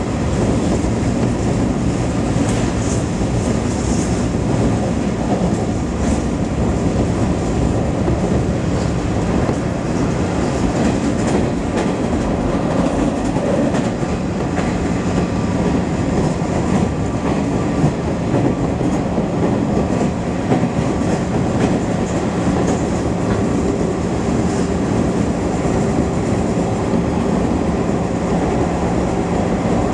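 Steady running noise of an electric commuter train on the JR Keiyo Line, heard from inside the carriage: a low rumble of wheels on rail, with a few light clicks scattered through it.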